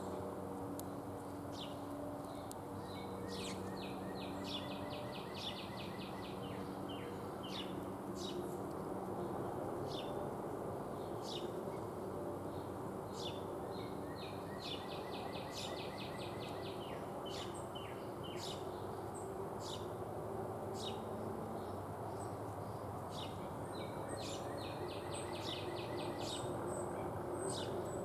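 Small songbirds calling with short, high chirps, and a rapid trilled song of quickly repeated notes heard three times, each lasting a couple of seconds. Under it runs a steady background noise, and a thin high steady tone comes in near the end.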